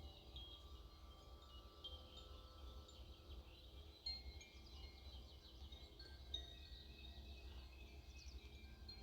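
Faint wind chimes ringing now and then, several clear high notes struck at different moments and left to fade, over a low steady rumble.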